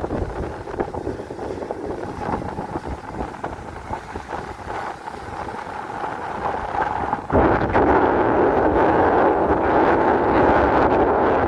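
Strong wind buffeting the microphone, mixed with the rush of a boat at sea. About seven seconds in it jumps suddenly louder and stays loud.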